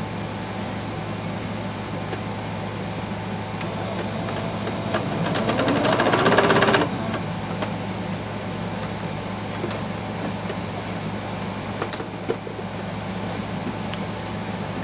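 Singer electric sewing machine stitching in one short run of about two seconds: the motor speeds up with rapid needle strokes, then stops suddenly. It is sewing a test seam on a scrap of fabric while an intermittent stitch fault is being traced after a bobbin change. A few light clicks from the machine follow a few seconds later.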